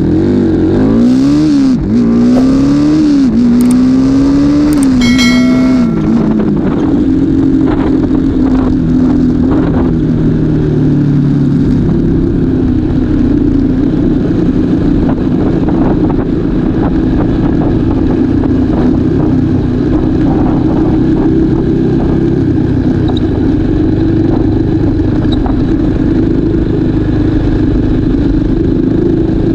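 Motorcycle engine accelerating through the gears, its pitch climbing and then dropping at each shift a few times in the first six seconds, then holding a steady high pitch while cruising.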